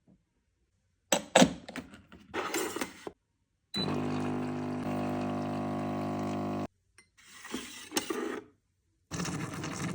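Clicks and clatter from handling the coffee machine and cup, then the machine's pump hums steadily for about three seconds as it dispenses. Short bursts of liquid and clinking sounds follow.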